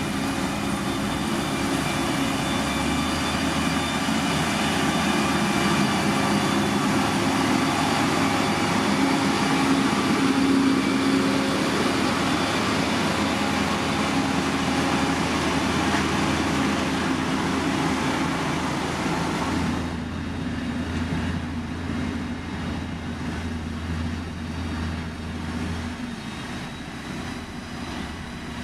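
Diesel engines of heavy earthmoving machines running steadily. About two-thirds of the way through, the higher hiss drops away suddenly and the lower engine drone carries on.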